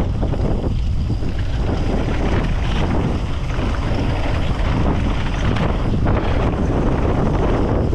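Heavy wind buffeting on the microphone: a steady, loud rushing noise, strongest in the low end.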